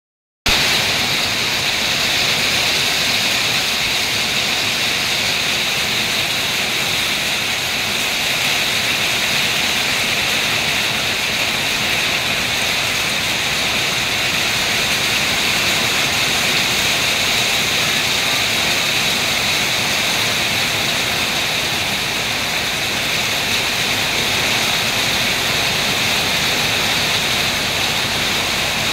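Heavy rain pouring steadily: a dense, even hiss that holds level throughout.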